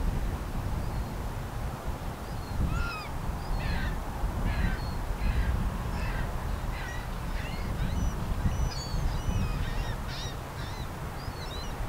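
Birds calling: a quick series of short, falling calls, a couple of seconds in and on until near the end, over a steady low rumble.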